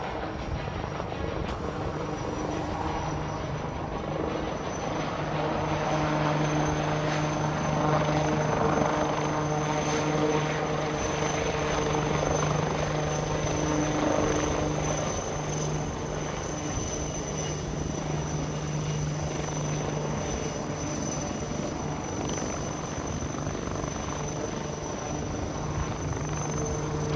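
Helicopter running: a steady low drone with a thin high turbine whine above it, growing a little louder through the middle.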